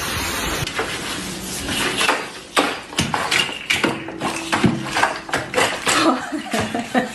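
A rushing noise cuts off within the first second, then comes an irregular clatter of light knocks and clicks, as of hard objects knocking together.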